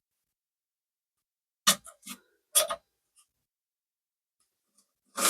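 A few sharp clicks and knocks in quick succession about two seconds in, then a louder knock at the very end: hard plastic toilet fill-valve parts being handled inside the tank.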